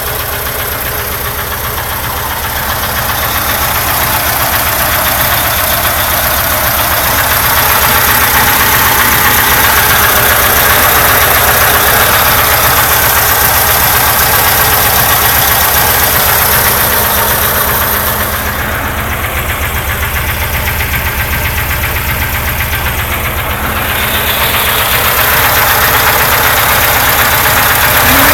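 ZAZ-968M's air-cooled MeMZ-968 V4 engine idling with a persistent knock, which the owner calls nasty and says came on for no apparent reason after a restart. The engine runs a little louder from about a quarter of the way in and dips briefly past the middle.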